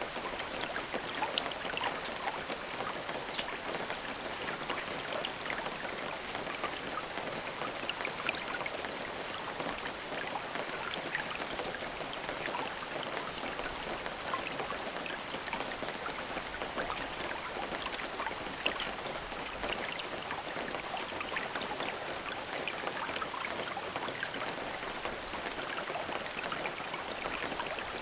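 Steady rain with many individual drops ticking on a surface.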